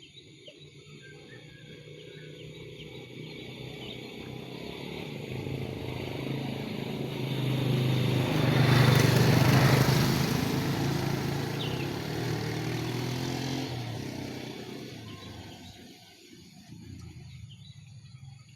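A motor vehicle drives past: its engine grows steadily louder, is loudest about nine seconds in, then fades away by about sixteen seconds. Insects chirp faintly throughout.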